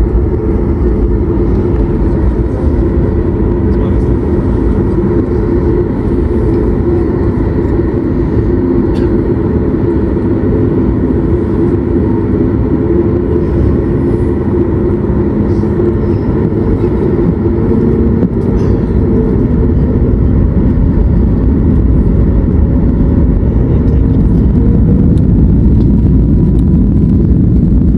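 Cabin noise of a Boeing 737 MAX 8 with its CFM LEAP-1B engines running: a steady low rumble with a hum of several held tones. It grows gradually louder through the last third as the aircraft gets under way for takeoff.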